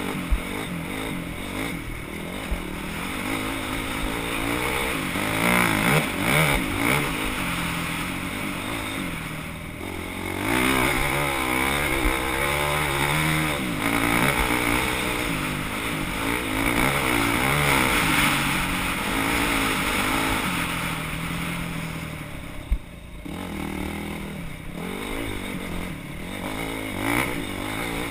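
Off-road scramble motorcycle engine revving up and down over and over as the bike rides the course, with a single sharp knock about two-thirds of the way through.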